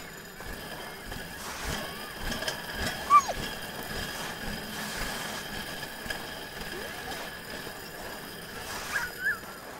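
A dog sled pulled by a husky team over a snowy trail: a steady hiss and rattle of the sled on the snow, with a short high squeal that falls in pitch about three seconds in and two short high squeaks near the end.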